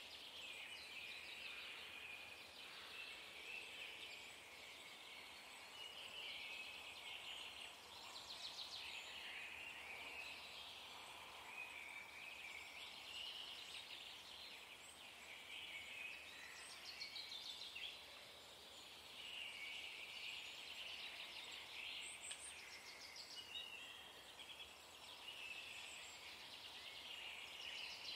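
Faint twittering and chirping of small songbirds, going on throughout.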